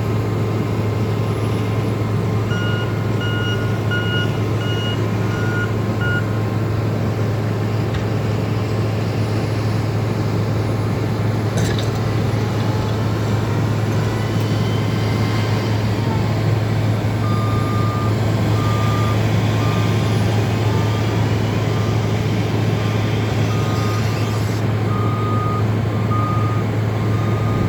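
Diesel engines of snow-plowing skid steers and loaders running steadily under load, with back-up alarms beeping in two spells: one early on, and a slightly lower-pitched one from a little past halfway to the end.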